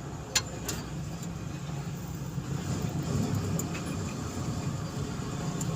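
Car engine idling steadily with a low, even hum, and a single sharp click about half a second in.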